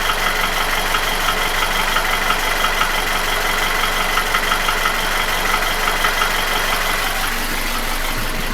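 Nissan QG16DE 1.6-litre four-cylinder engine, which has no hydraulic lifters, idling steadily with a regular knock. The owner places the knock at the front of the block, between cylinders 1 and 2.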